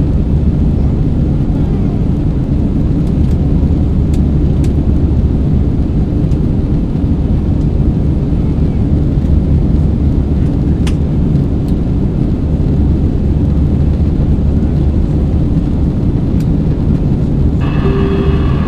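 Steady low roar of an Airbus A320's cabin in flight, engine and airflow noise. Near the end the cabin PA system switches on and a chime tone sounds, ahead of an announcement.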